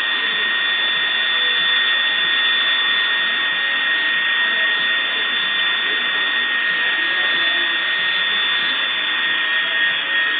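Helicopter turbine engine running steadily: a constant high whine over a loud rushing of air, with no change in pitch or level.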